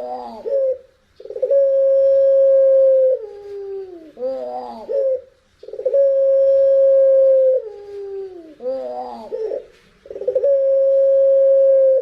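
Puter pelung dove cooing: three long, steady, howl-like notes, each held about two seconds and dropping in pitch at the end into a short warbling phrase, repeating about every four and a half seconds.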